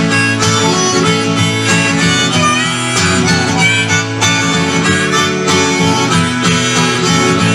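Instrumental break of a live folk-country song: a harmonica plays the lead over strummed acoustic guitar.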